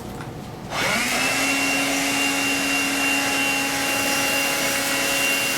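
A Eureka 96H Quick Up 6-volt cordless stick vacuum switched on under a second in: its motor spins up in a quick rising whine, then runs steadily with a constant whine over a rushing of air.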